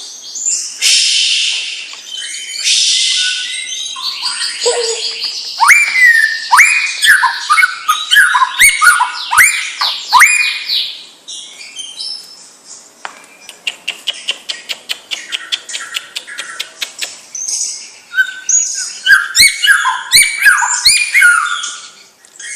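White-rumped shama (murai batu) singing a long, varied song of loud whistles, down-sweeping notes and chatter. In the middle comes a rapid run of clicking notes, about six a second, before the whistles return.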